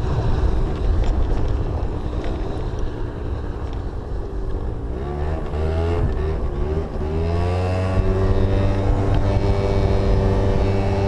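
Yamaha Zuma 50cc scooter's engine under way: a rough rushing noise at first, then the engine comes through about halfway in, its pitch swinging up and down for a couple of seconds before holding steady.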